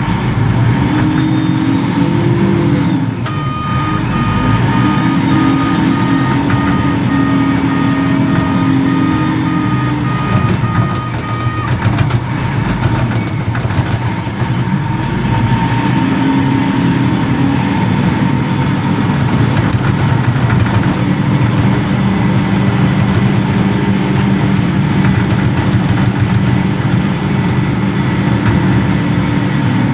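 Diesel engine of a container reach stacker running under load, its revs rising and falling as it works. A beeping alarm sounds over it from about three seconds in until about twelve seconds in.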